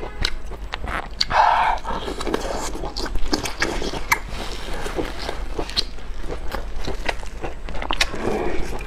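Close-miked eating: wet chewing and biting of braised pork intestine rings, with many sharp mouth clicks and smacks.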